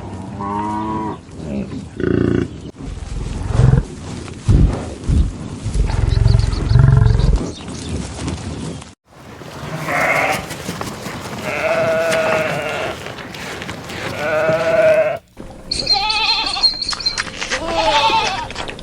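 Goats bleating: a series of separate wavering calls cut together from several recordings, with the later calls higher-pitched. A stretch of low rumbling noise sits under the first half.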